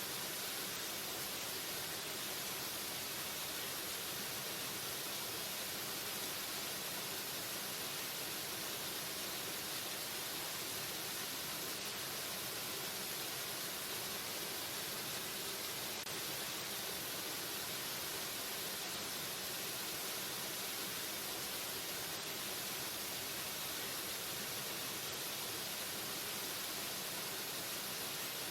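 Waterfall: falling water rushing steadily as an even, unchanging hiss with more weight in the upper range than in the low end.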